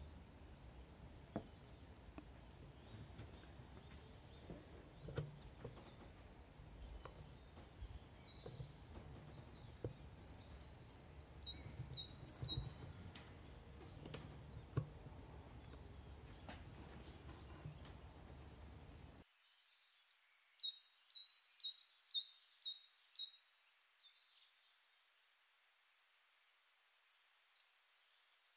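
Small wild songbirds chirping, with two quick runs of rapidly repeated high notes, the second longer, over a faint low rumble that cuts off suddenly just before the second run.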